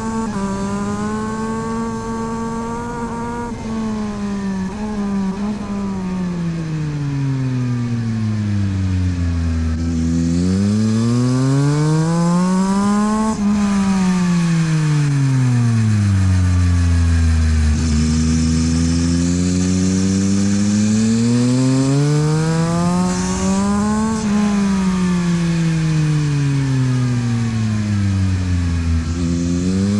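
The three-cylinder engine of a 2022 Yamaha MT-09 SP with a LeoVince exhaust runs under load on track. Its revs fall away during the first ten seconds, then climb twice, peaking about 13 and 24 seconds in, and each climb is followed by a long drop as the bike accelerates and brakes through corners. Wind rush rises with speed around the middle.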